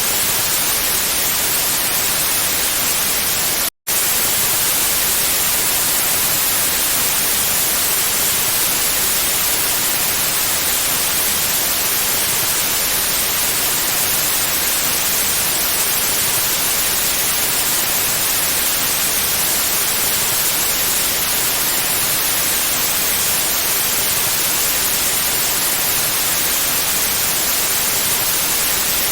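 Steady white noise, an even hiss with most of its energy in the highs. It drops out to silence for a split second about four seconds in.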